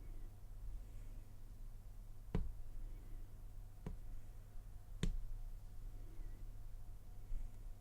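Three small sharp clicks a second or so apart over a steady low hum: a lock pick and tension wrench working the pin stacks of a Trioving SEC core in an Abus 83/60 padlock during single pin picking.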